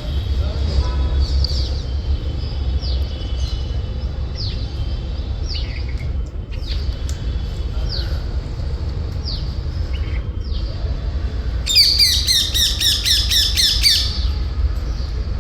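Alexandrine parakeet calling: short, high calls that fall in pitch, about one a second, then a rapid run of harsh screeches lasting two to three seconds near the end.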